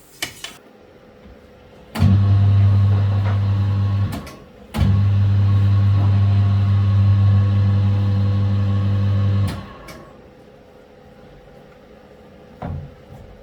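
A machine runs with a steady low hum twice: about two seconds, a short stop, then about five seconds before it cuts off.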